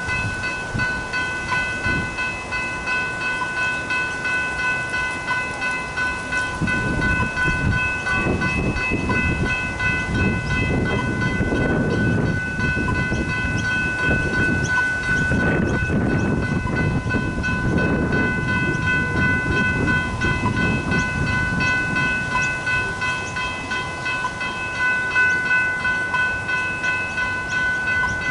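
Level crossing bells ringing steadily while the crossing is active. A train passes over the crossing, rumbling loudly from about six seconds in until about twenty-two seconds in.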